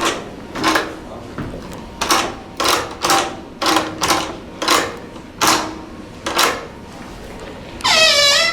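A run of about nine short, sharp sounds, irregularly spaced, then near the end a loud, high-pitched creak that drops in pitch and holds steady: a creaky door on a Sargent door closer.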